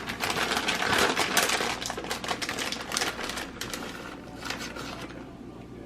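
Shredded cheese being sprinkled by hand from a plastic bag onto corn chips and chili in a bowl: a run of quick crackly rustles and clicks that die away about five seconds in.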